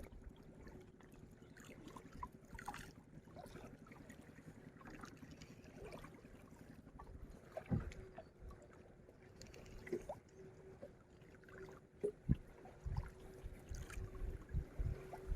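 Strong wind buffeting the microphone in low thumps, with water lapping and splashing and a faint steady hum underneath.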